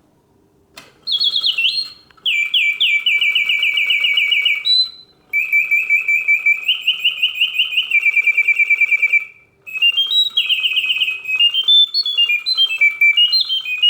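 Vintage Reuge singing bird automaton, made around 1970, singing: its bellows-fed mechanical whistle runs fast chirping trills and warbling rising and falling phrases in several bursts with short pauses between them. A click about a second in sets it going. It is freshly serviced, singing with full voice and hitting all its oscillating notes.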